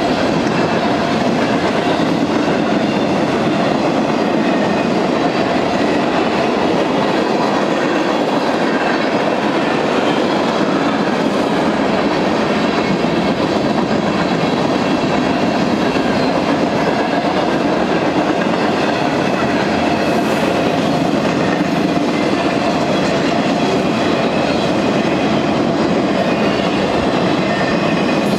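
A Union Pacific freight train's cars rolling steadily past at close range: a continuous rumble and clatter of steel wheels on rail.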